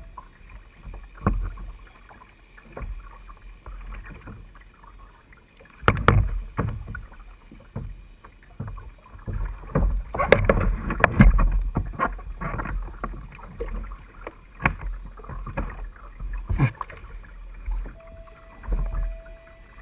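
Kayak on open water: water splashing and slapping against the hull, with irregular knocks. These are loudest about six seconds in and again from about ten to twelve seconds in.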